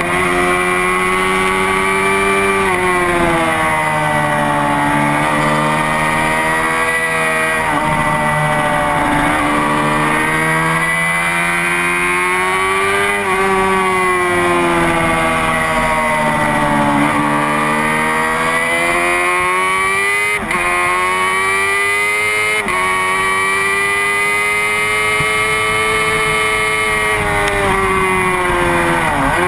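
Honda CBR600RR's inline-four engine at high revs, its pitch climbing as it accelerates and dropping away under braking, over and over as the bike laps a track.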